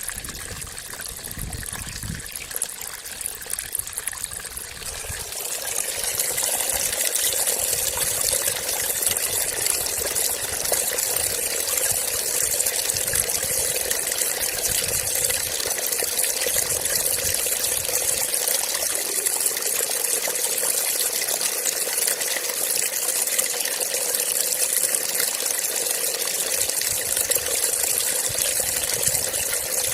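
Water trickling and flowing in a steady rush that grows louder about six seconds in.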